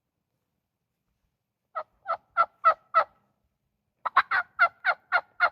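Wild turkey yelping close by: five evenly spaced yelps, a pause of about a second, then a faster run of about seven more, each note breaking from high to low.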